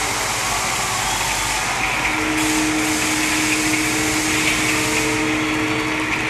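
A vehicle engine running steadily under a loud, even rushing noise, with a steady low hum that shifts slightly in pitch about two seconds in.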